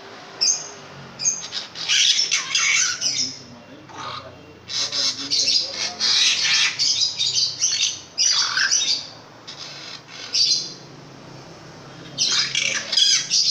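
Long-tailed shrike (pentet) calling loudly in repeated harsh, scratchy phrases, in clusters with short pauses between them.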